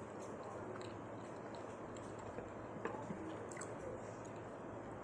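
Soft chewing of a sloppy joe sandwich, with a few small wet mouth clicks, the clearest about three seconds in, over a steady faint background hum.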